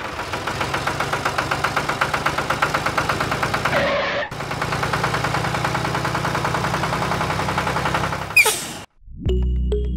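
Tractor engine idling with a fast, even chugging beat. It breaks off briefly about four seconds in, resumes, and stops shortly before the end.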